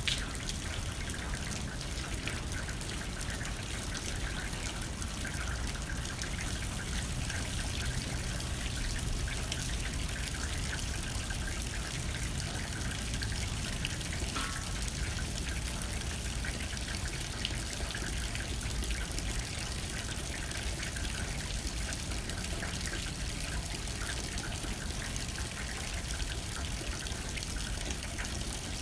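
Steady rain pattering and trickling on a window pane, with a low rumble of wind beneath.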